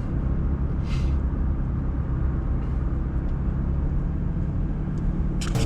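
Steady low road and engine rumble inside a car's cabin while driving at speed, with a brief hiss about a second in. Music comes in just before the end.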